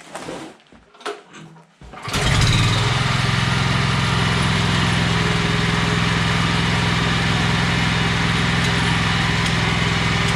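BCS walk-behind tractor's small single engine starts about two seconds in and runs steadily at an even speed.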